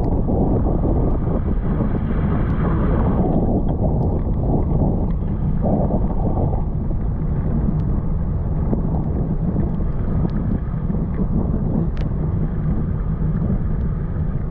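Wind buffeting the microphone of a rider cycling along, a steady low rush, with a higher hiss that stops suddenly a few seconds in.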